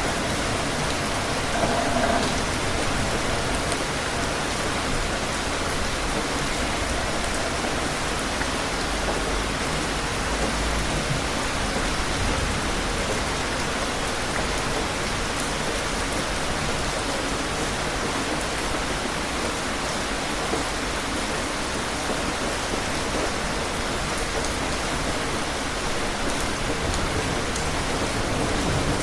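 Steady rain falling and pattering on surfaces, an even hiss with no pause.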